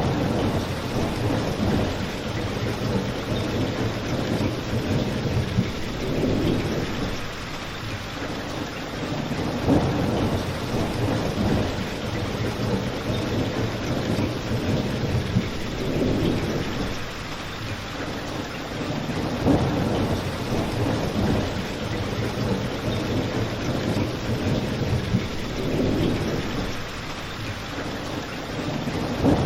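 Steady rain with a crackling fireplace, with slow low rumbling swells and a few sharp pops.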